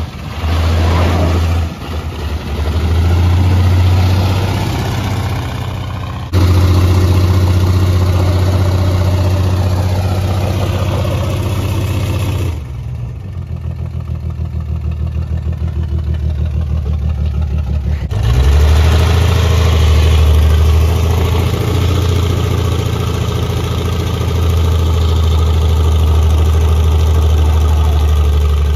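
1973 Plymouth Scamp's engine revved hard and held at high revs while its rear wheels spin in a burnout on wet ground, in several stretches that change abruptly, with a quieter stretch in the middle.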